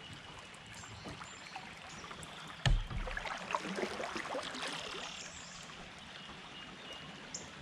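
Creek water running and trickling around a kayak, with one sharp knock about two and a half seconds in, followed by light clicks and small splashes.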